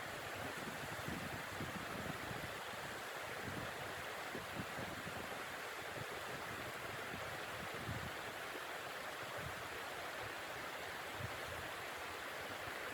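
Steady rushing noise of blizzard wind, with an irregular low rumbling flutter underneath.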